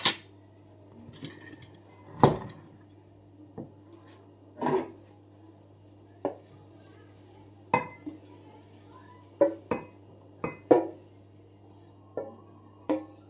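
Metal cooking utensils and dishes clinking and knocking against pots and plates, about a dozen separate irregular clinks over a faint low hum.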